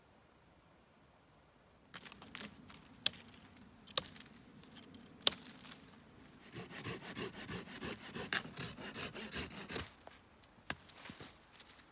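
A few sharp clicks, then a run of quick rhythmic rasping strokes, about three or four a second, that stops abruptly near the end.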